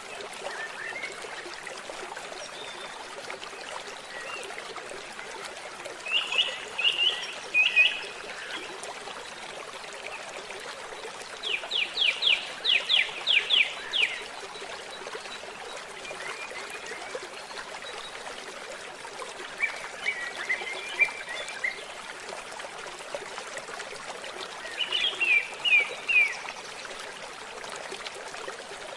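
Forest birds singing in four short bursts of quick notes, one of them a fast run of about ten sharp notes. Under them a stream trickles steadily.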